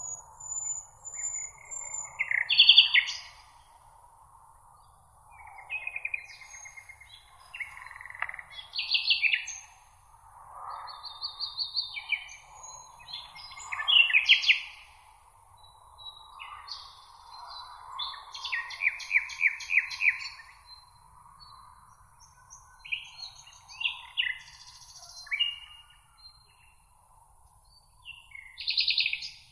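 Several songbirds singing, with short varied phrases and fast trills one after another, some close and loud. Under them runs a steady faint background hiss.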